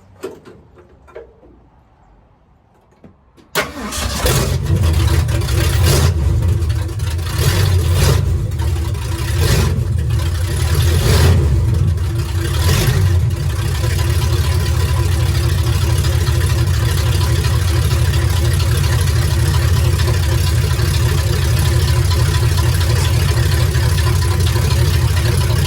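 Classic Ford truck's engine firing up suddenly about three and a half seconds in, blipped several times, then settling into a steady, loud idle.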